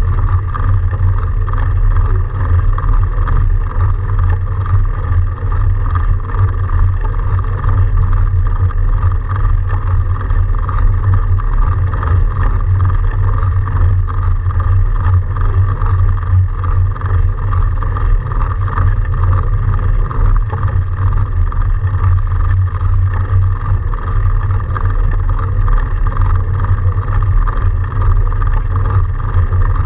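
Steady, loud rumbling drone of a fat bike being ridden through snow: tyre and drivetrain noise mixed with wind on the microphone, unchanging throughout.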